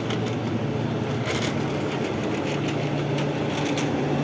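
A steady low engine hum, as of a vehicle idling, with a few faint clicks over it.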